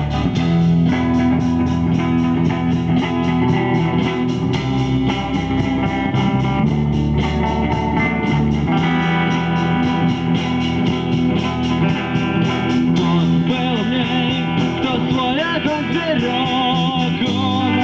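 Instrumental break of a rock song: electric guitar over bass guitar with a steady beat. Wavering, bending guitar notes come in about three-quarters of the way through.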